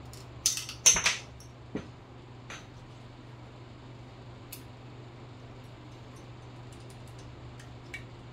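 Small hard objects being handled and set down: a quick cluster of clicks and clatters about half a second to a second in, then a few faint single ticks, over a steady low hum.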